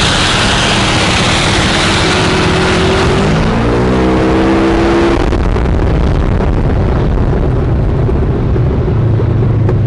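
Helicopter running close by on the ground: a loud, steady rush of turbine and rotor noise with a low hum. A droning tone rises in pitch about three seconds in and fades out a couple of seconds later.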